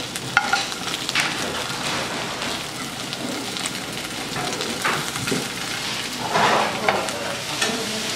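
Pieces of egg-and-batter pancake sizzling in oil in a nonstick frying pan, with a plastic spatula scraping and knocking against the pan as they are stirred and broken up.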